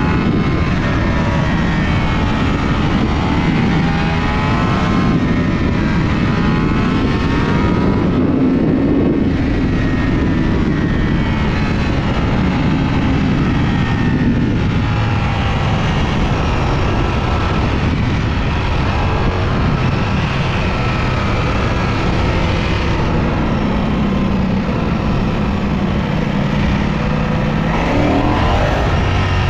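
Ducati Panigale V4S's V4 engine running on the move, its pitch rising and falling with throttle and gear changes over a steady rushing noise, with a quick climb in revs near the end.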